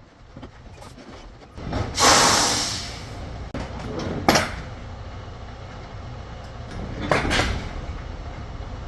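Semi-truck engine running low while backing a trailer, with loud bursts of compressed-air hiss from the air brakes: a long one about two seconds in, a short sharp one a couple of seconds later, and another about seven seconds in.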